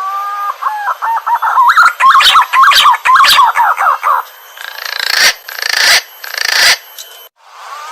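Green pigeon (punai) song played as a trapping lure. Whistled notes rise in pitch, then break into a fast warbling run, followed by three or four harsh rasping notes. After a short gap near the end, the phrase starts again.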